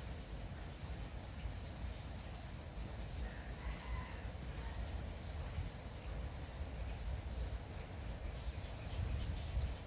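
Light, steady drizzle with birds chirping here and there over it.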